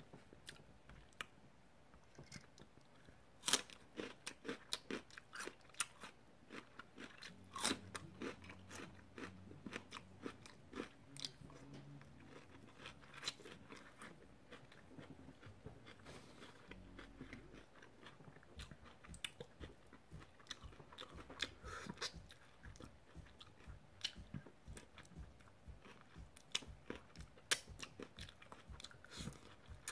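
Close-miked chewing and biting on chicken wings, with irregular sharp crunches and mouth clicks.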